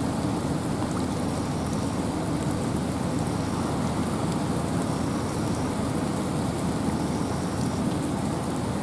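Steady rain with wind in a forest: an even, dense hiss weighted toward the low end, with faint scattered drop ticks.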